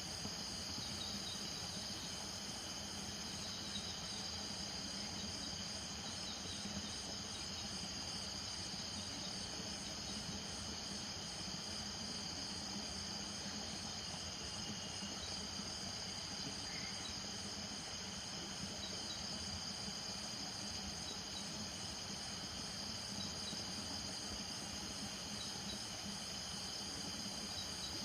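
Night chorus of crickets and other insects trilling steadily in several overlapping high pitches, one of them a fast, evenly pulsing call.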